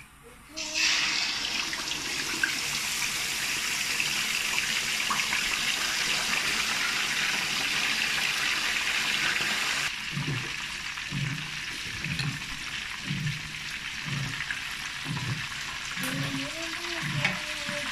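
Whole chicken going into hot cooking oil in a frying pan, bursting into a dense sizzle about a second in. The oil keeps sizzling as the chicken deep-fries, a little quieter after about ten seconds.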